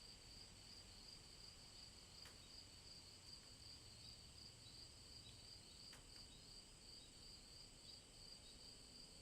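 Faint, steady high chorus of night insects trilling, with a couple of single raindrop ticks, about two seconds in and again about six seconds in.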